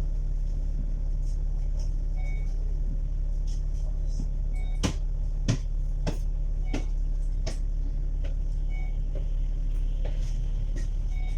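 Interior of a moving city bus: steady engine and road rumble, with a run of sharp rattles and knocks about halfway through and a faint short beep repeating every couple of seconds.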